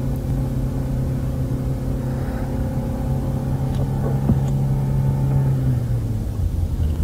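Car engine running steadily, with a short click about four seconds in. Near the end the engine note drops lower.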